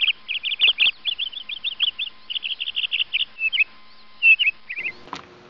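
A songbird singing: quick runs of high chirping notes in short repeated phrases, stopping shortly before the end.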